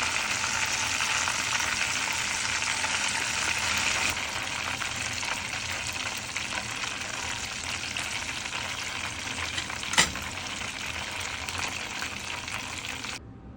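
Breaded chicken drumsticks frying in hot oil with a steady, dense sizzle. A single sharp click comes about ten seconds in. The sizzle cuts off abruptly near the end.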